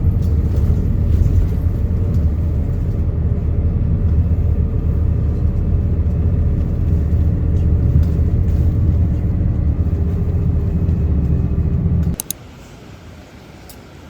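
Steady low rumble of a motor vehicle running, cutting off abruptly about twelve seconds in.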